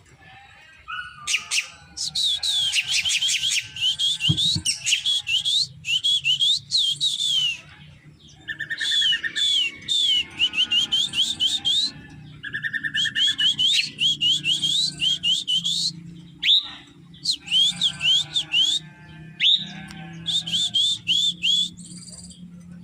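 Drongo singing in repeated bouts of quick, high, downward-sweeping whistled notes, with a few short buzzy trills between the bouts.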